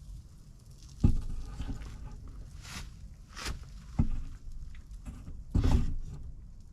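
Three dull knocks, about one, four and five and a half seconds in, with short scraping or rustling sounds between them.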